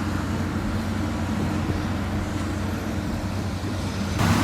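Motor grader's diesel engine running steadily, a low hum over machine noise. Near the end it gives way abruptly to a louder, fuller machine noise.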